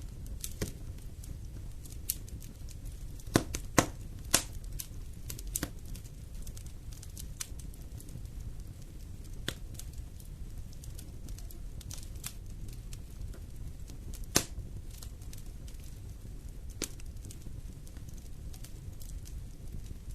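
Wood fire in a fireplace crackling, with sharp irregular pops over a low steady rumble; the loudest pops come in a cluster about three to four seconds in and once more around fourteen seconds.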